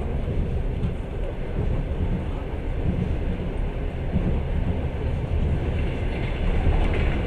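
Long-distance passenger train running along the track, heard from inside the carriage: a steady, low rumble of the wheels on the rails.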